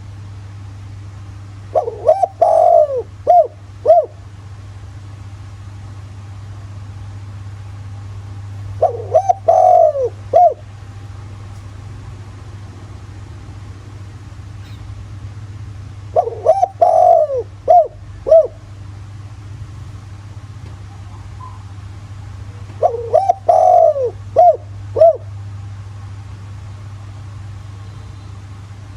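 Spotted dove (chim cu gáy) cooing: four phrases about seven seconds apart, each a quick run of coos ending in a separate last note. This is the male's territorial call ('gáy') in the deep 'thổ' voice, used as a lure to call in wild doves. A steady low hum runs underneath.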